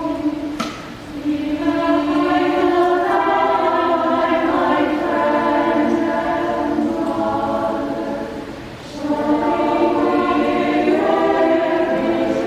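Women's choir singing long held phrases in several parts. The singing breaks off briefly twice, about a second in and about eight seconds in, between phrases.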